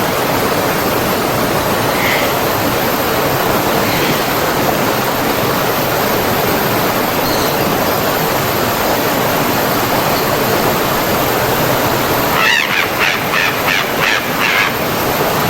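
Forest stream running steadily, a dense rushing of water. About twelve seconds in, a bird gives a quick series of about six chirps, with a couple of faint single chirps earlier.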